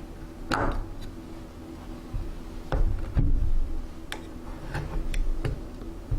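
Objects being handled and set down while a refrigerator is sorted: a series of light, irregular knocks and clicks, roughly eight in all, over a steady low hum.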